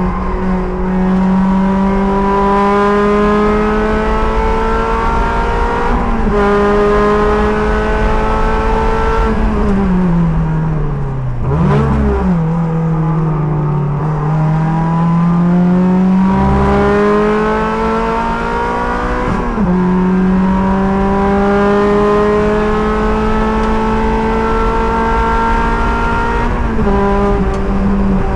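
Sports car engine running hard under load from the driver's seat, its pitch climbing through the gears with several gear changes, then falling while the car slows with a short throttle blip about 12 seconds in before it climbs again.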